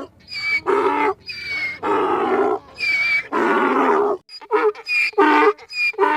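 A run of repeated animal calls, each under a second long, with short gaps between them.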